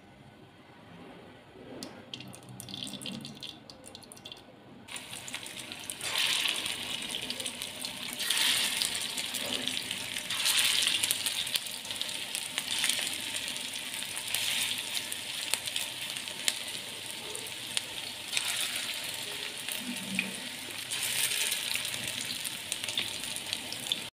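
Minced-meat cocktail kababs shallow-frying in hot oil on a tawa. The sizzle sets in about five seconds in and then runs steadily, swelling and easing several times as more kababs are laid into the oil.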